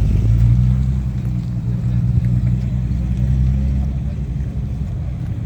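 Classic car engine running at low revs, a steady deep low note that slowly grows fainter.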